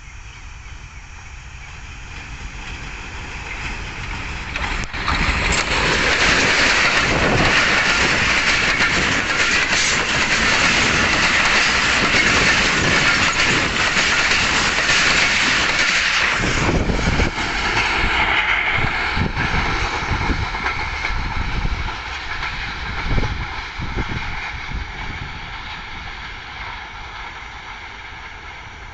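Passenger express train running through a station at speed: the rumble builds, with a sharp knock about five seconds in. The loud rush and clatter of the coaches lasts about ten seconds, then fades slowly as the train goes away.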